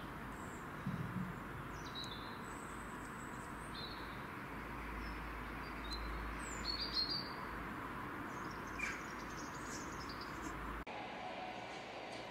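Small birds chirping now and then over a steady outdoor background hiss, with a soft low thud about a second in.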